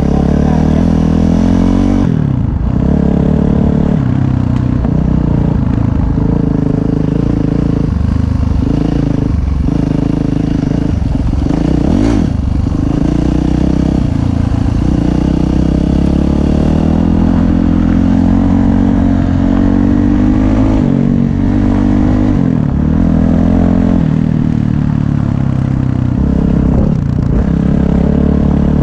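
Dirt bike engine running loudly under way, its pitch repeatedly rising and falling as the throttle is opened and closed.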